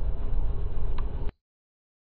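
Freight cars rolling past close by: a heavy low rumble of steel wheels on rail, with a faint steady whine and a single sharp click about a second in. The sound cuts off suddenly about a second and a quarter in.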